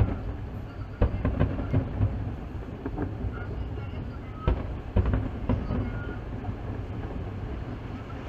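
Distant fireworks booms: single deep thuds about a second in and a pair about four and a half seconds in. Beneath them runs a steady low rumble of train and city traffic.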